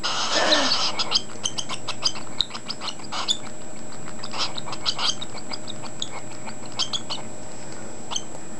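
Hungry unweaned cockatiel chick begging: a rapid, irregular string of short, high chirps, several a second, thinning out in the second half.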